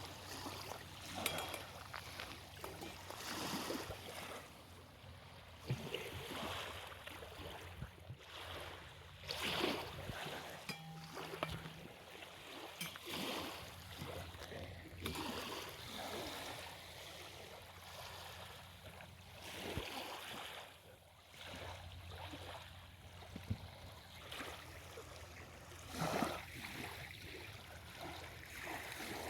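Small lake waves lapping at the shoreline, a soft wash swelling and falling every few seconds, over a faint steady low hum.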